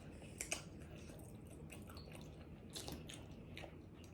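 Faint chewing of a pizza taco, with a few soft, short mouth clicks and crunches.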